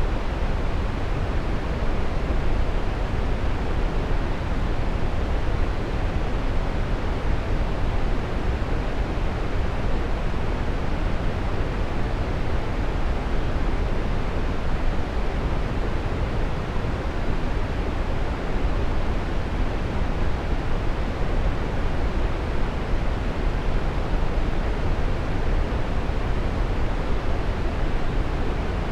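Waterfall rushing: a steady, deep roar of falling water with no breaks.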